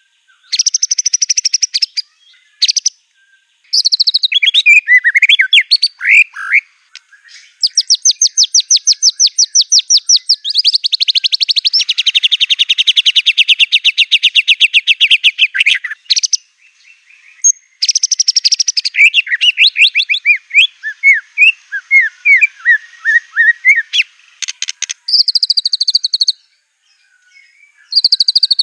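White-rumped shama (murai batu) singing a loud, varied song: rapid trills and chattering runs broken by short pauses, with a long dense trill about halfway through and a string of quick whistled notes after it.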